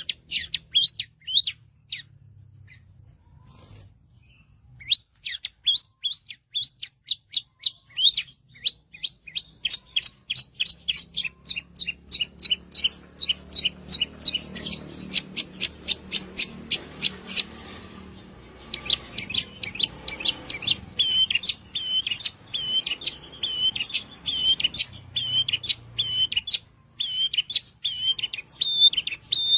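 Long-tailed shrike (cendet) singing: quick volleys of sharp, high notes, a short break of about three seconds near the start, then a long fast run of rapid notes, and from about two-thirds in a steady string of repeated warbled notes.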